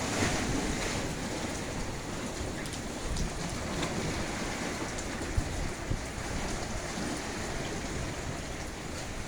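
Rain falling steadily: an even hiss with scattered ticks of drops.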